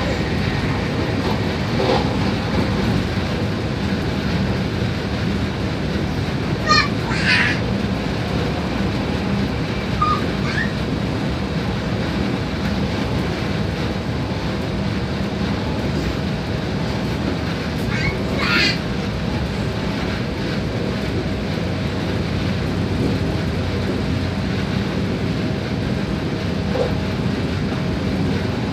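Inside a passenger train running at speed: a steady rumble of the wheels on the rails with a low hum. Two short high-pitched sounds cut through, about 7 and 18 seconds in.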